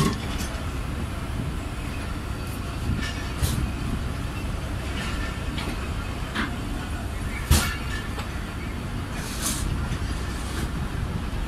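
Passenger train coach rolling on the track as the train pulls out of a station, heard from an open coach door: a steady low rumble of wheels on rails with scattered clanks and knocks, the loudest a little past halfway.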